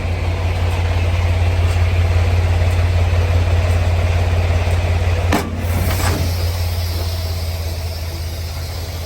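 Semi-truck diesel engine idling with a steady low rumble. About five seconds in there is a sharp click, after which it runs a little quieter.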